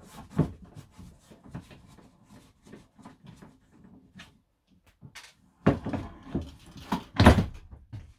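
Wooden door in a camper van's interior being wrenched at and knocked to free it. A run of light knocks and rattles is followed, about three seconds from the end, by several loud bangs, the heaviest near the end.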